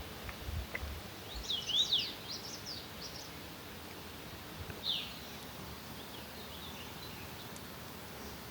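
A songbird singing quick, chirping phrases of rising and falling notes over a steady outdoor hiss, with another short call about five seconds in and fainter chirps after. A few soft low thumps come in the first second or so.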